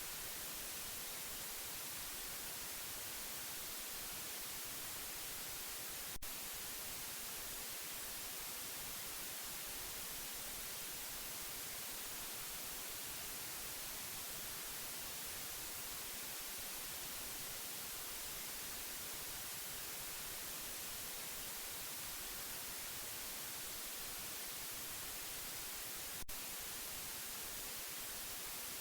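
Steady white noise: an even, unchanging hiss, strongest in the high end. Two faint clicks break it, about twenty seconds apart.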